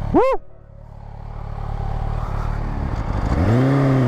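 A short shout of 'woo', then a lull that slowly builds. About three seconds in, a Kawasaki Ninja H2's supercharged inline-four engine accelerates, its note climbing quickly and then holding steady. The engine is running smoothly on a newly replaced cam chain tensioner.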